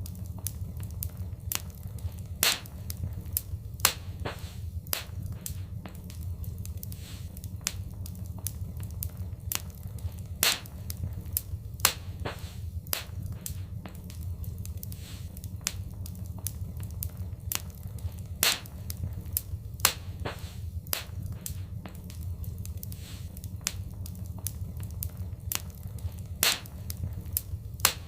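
Wood fire crackling: irregular sharp pops and snaps several times a second, a handful of them much louder, over a steady low rumble of the burning fire.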